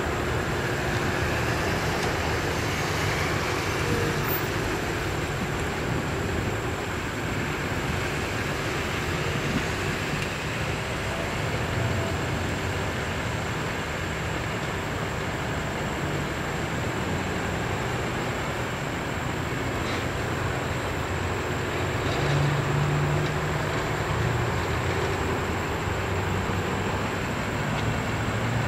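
Approaching CSX freight train's diesel locomotives running under power, a continuous low rumble of engines and wheels on the rails, hauling an autorack train.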